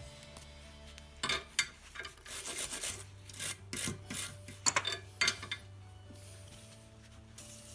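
Irregular rasping, scraping strokes of hand work, over a faint steady hum.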